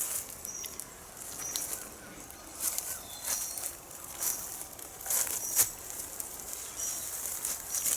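Small birds calling in the open countryside: short, high chirps repeated every second or so, with a few brief sharper flurries, over a steady hiss of background noise.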